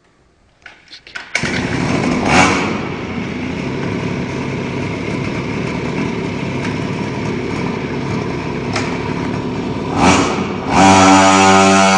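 A 50cc two-stroke minibike engine starting about a second and a half in after a few light knocks, then running with throttle blips: it revs up about a second after starting and again near the end, then holds louder and steadier in the last second.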